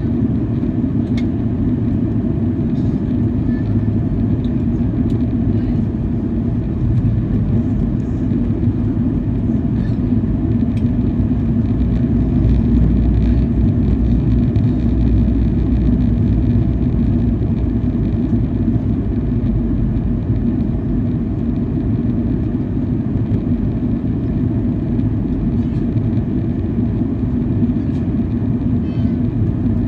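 Steady cabin noise inside a Boeing 737-800 airliner in flight: the drone of its CFM56-7B jet engines and the rush of air past the fuselage, with a steady low hum. The low rumble swells a little about midway through.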